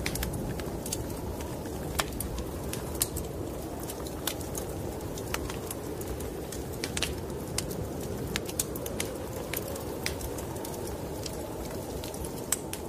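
Wood fire in a fireplace crackling with irregular sharp pops over a steady low rush of snowstorm wind.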